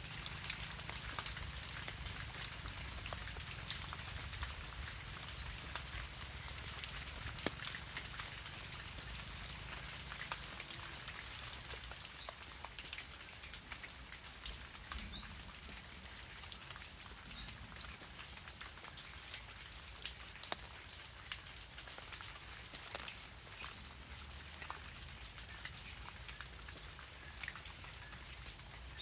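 Steady rain pattering, with many sharp drip ticks. Faint short, high, upward-sliding bird chirps come every few seconds.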